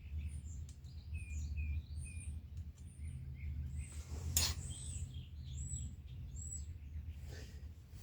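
Birds chirping, with many short calls scattered throughout, over a steady low rumble. A single sharp click comes about four seconds in.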